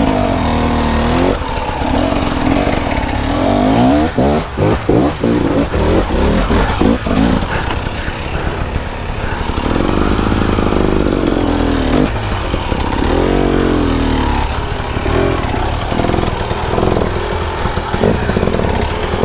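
A KTM 300 XC-W two-stroke dirt bike engine, worked on and off the throttle, its pitch repeatedly rising and falling. About four to seven seconds in come quick, choppy blips, and later come a couple of longer swells in revs.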